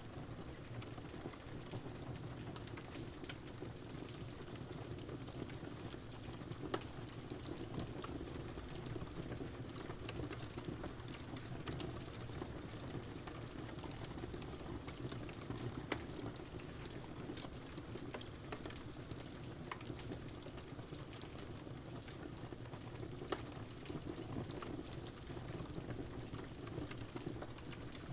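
Fire crackling with steady rain: a constant hiss and rush, dotted with scattered small crackles and a few sharper pops.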